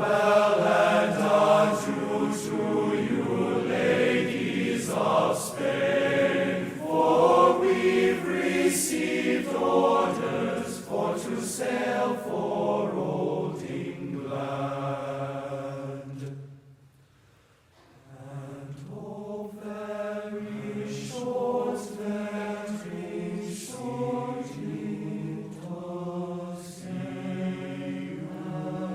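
A group of voices chanting or singing without clear words, on long held notes, with a brief pause about two-thirds of the way through.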